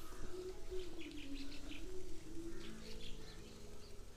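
Small birds chirping in short, scattered calls, over a faint low tone that slowly wavers in pitch.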